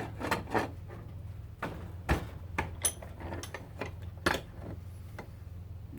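Irregular metal clinks and knocks as the parts of a garbage disposal are handled during teardown, one with a brief metallic ring about three seconds in, over a steady low hum.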